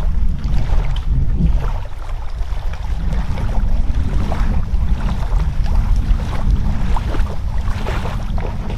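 Wind buffeting the microphone: a heavy, steady low rumble, with scattered small clicks and rustles over it.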